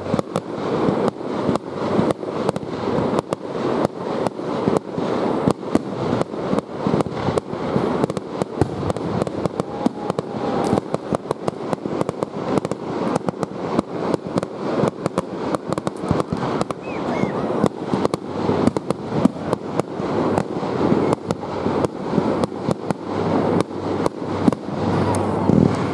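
Aerial fireworks going off in a dense, continuous barrage: bang after bang, several a second, over a steady rumble and crackle, with no pause.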